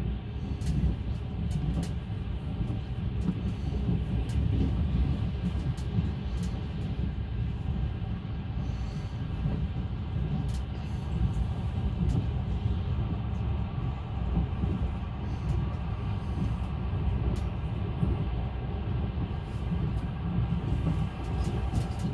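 Passenger train running at speed: a steady rumble of the wheels on the rails, with a few scattered faint clicks.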